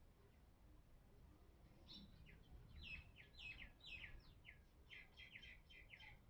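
Faint bird chirping in the background: a quick run of short chirps, each falling in pitch, starting about two seconds in at roughly three or four a second.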